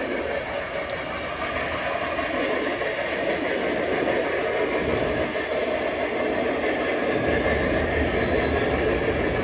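Model train running along its track: a steady rolling and motor noise that grows a little louder, with a low hum coming in about seven seconds in.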